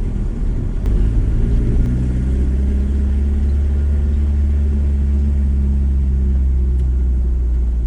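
VW T4 campervan's engine running under way with low road rumble; the engine note picks up a little about a second in, then holds steady.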